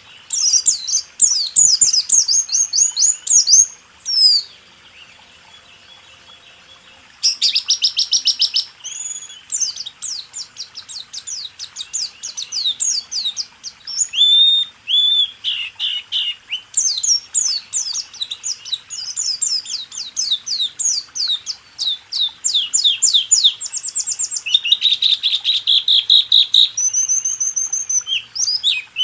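White-eye (pleci) singing a fast rolling 'rool tembak' song: long runs of rapid, high chirps and trills, broken by a pause of about three seconds after the first few seconds.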